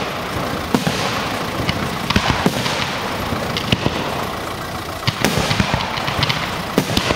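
Aerial fireworks bursting: a continuous crackle with sharp bangs scattered irregularly throughout, a cluster of them about five seconds in.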